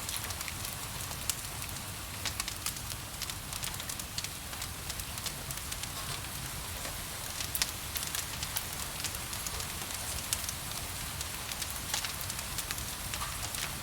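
Wood fire crackling, with frequent irregular sharp pops and snaps, over a steady hiss of rain.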